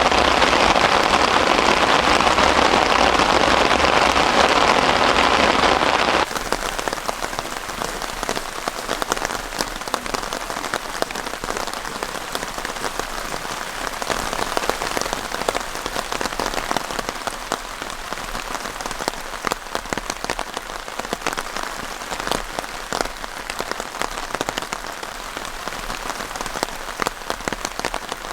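Heavy rain falling; about six seconds in it changes suddenly to a quieter, steady patter of separate drops hitting a surface.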